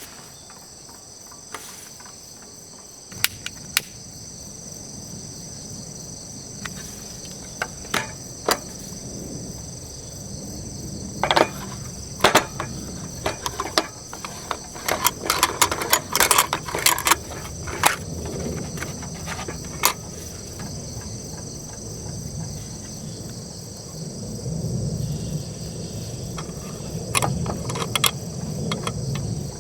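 Crickets trilling steadily, with scattered clicks and knocks throughout, most of them in the middle stretch.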